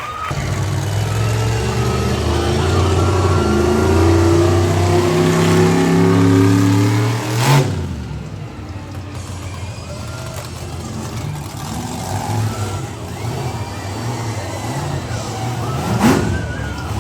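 Monster truck engine revving hard, its pitch climbing over the first seven seconds, then running lower and quieter. Two sharp bangs stand out, one about seven seconds in and one near the end.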